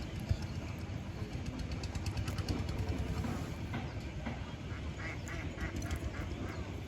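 Ducks quacking: a quick run of about six short quacks near the end, over a steady low rumble.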